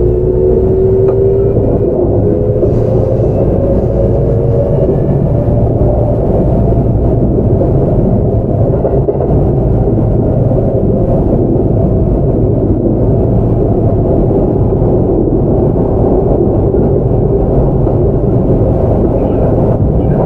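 Kintetsu 5800 series electric train running, heard from inside the car: the Mitsubishi GTO-VVVF traction motors give a faint whine that rises slowly in pitch over the first few seconds and fades out, over a steady rumble of wheels on rails.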